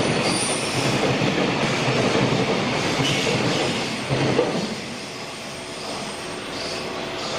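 Tail end of a JR Freight container train passing at speed, its wagon wheels running loudly on the rails. About four and a half seconds in, the last wagon goes by and the noise drops to the quieter sound of the train moving away.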